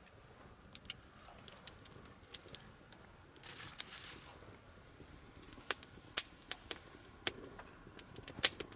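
Campfire crackling: scattered sharp pops from the burning wood, with a brief hiss about three and a half seconds in.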